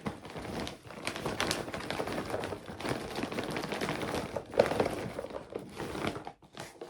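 Plastic treat packets crinkling and rustling continuously as pet treats are tipped out and pushed into a storage container, with small taps and knocks throughout.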